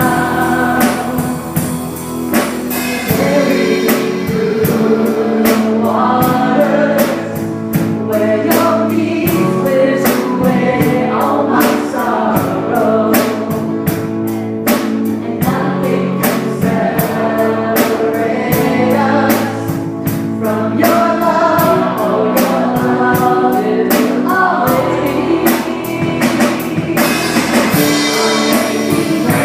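Worship song: a group of singers over a band with a steady drum beat of about two strokes a second.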